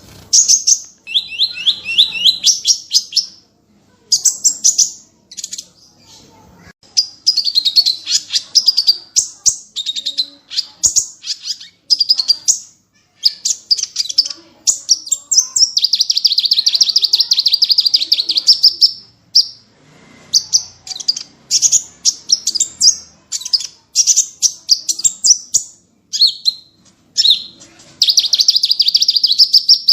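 A small songbird singing fast, high trills of rapidly repeated notes, in bursts of one to three seconds broken by short pauses. These are the rapid-fire 'tembakan' phrases prized in masteran song for training murai batu and kacer.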